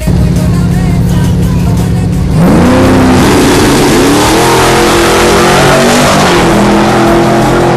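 An engine held at steady revs, then about two and a half seconds in it opens up and gets much louder. Its pitch rises, drops back and rises again as it accelerates hard through the gears, like a drag-racing launch.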